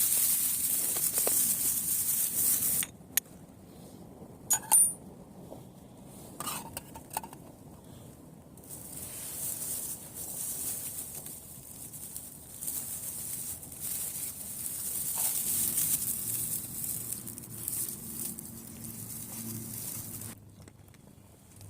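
A steel striker hit against flint to throw sparks: a few sharp metallic chinks, the loudest about four and a half seconds in. Around them is a steady high hiss that cuts off abruptly and comes back.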